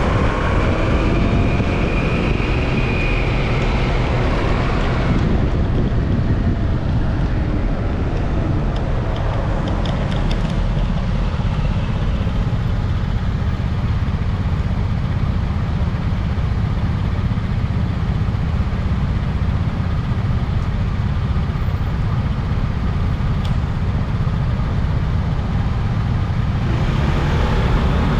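Wind buffeting the microphone while riding along a road, a steady low rumble, with passing traffic and road noise. The traffic noise is louder for the first five seconds and again near the end.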